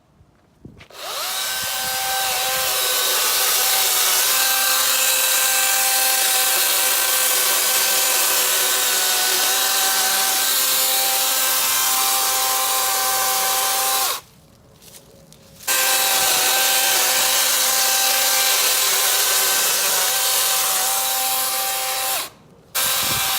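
DeWalt FlexVolt 60V brushless cordless chainsaw running with a steady high electric whine while cutting through small limbs, barely bogging down. It starts about a second in, stops for a second and a half partway through, and pauses briefly again near the end.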